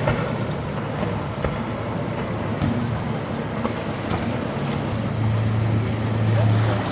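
Wind buffeting the microphone over rolling surf, with a passing boat's engine coming in as a steady low drone about five seconds in and growing louder.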